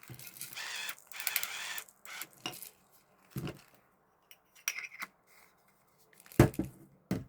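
Small objects being handled: a rustle for the first couple of seconds, then several separate clicks and knocks, the loudest about six and a half seconds in.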